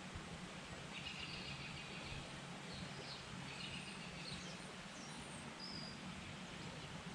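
Birds chirping: a scattered series of short, high chirps over a steady, faint background hiss.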